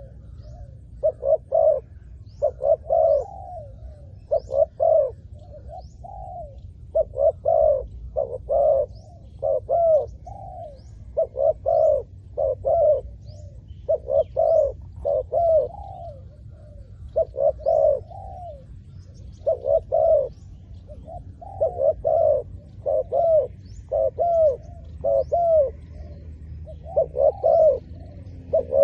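Spotted dove cooing over and over in short clusters of rounded coos, a phrase every second or two. Faint high chirps of small birds are heard behind it.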